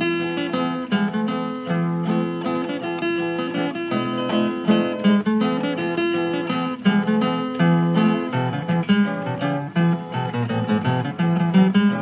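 Acoustic guitar picking the instrumental introduction of a country song, with quick runs of plucked notes and no singing.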